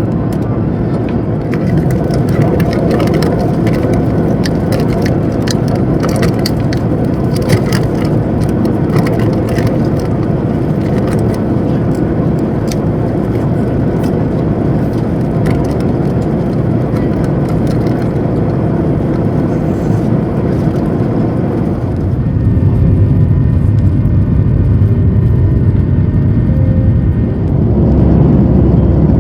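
Airliner cabin noise: a loud, steady rumble of the jet engines and airflow heard from inside the plane, with scattered rattles and clicks in the first half. About 22 seconds in the rumble grows heavier and faint steady tones come in.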